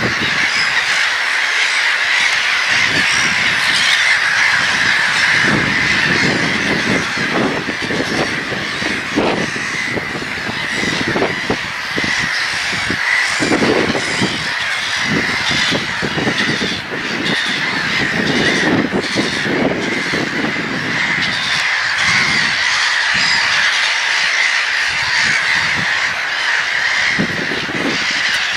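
A large flock of gulls calling at once: a loud, continuous chorus of overlapping squawking calls with many separate cries standing out from it.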